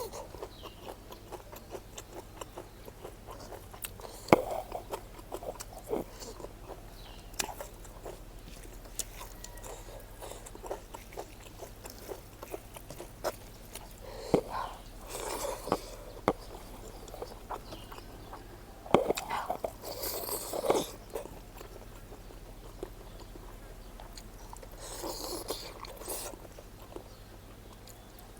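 Close-miked eating: a person chewing and biting smoked pork with anishi, with many small wet mouth clicks and smacks and a few longer, louder noisy mouth sounds.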